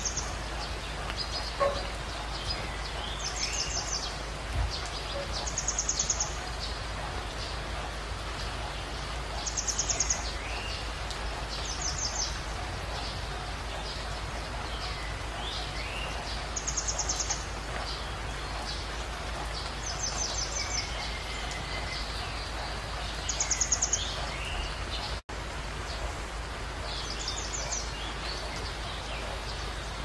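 Wild birds calling: short, high, buzzy trills every two to four seconds, with a few lower chirps between them, over a steady background hiss.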